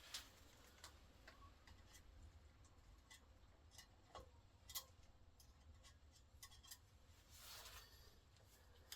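Faint, scattered clicks and light taps of small metal tools and engine parts being handled on a workbench, with a sharper click about five seconds in and a soft rub near the end, over a low hum.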